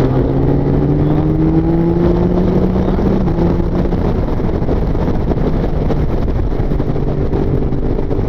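Motorcycle engine under way on the road: its pitch drops at a gear change right at the start, climbs gently for a few seconds, then holds steady. Heavy wind rush runs under it.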